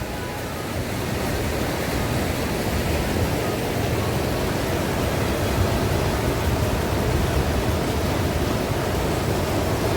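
River water rushing steadily over a rocky bed.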